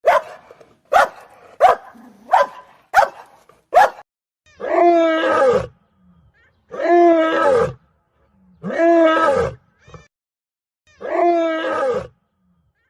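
Animal calls: six short, sharp barks in quick succession, then four long calls of about a second each, evenly spaced and each falling in pitch at the end.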